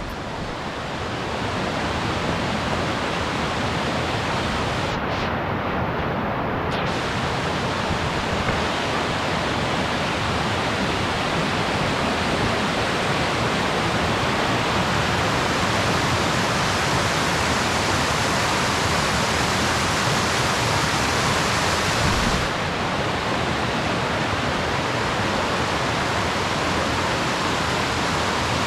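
Waterfall running: a steady, even rush of falling water. The tone shifts slightly about 22 seconds in.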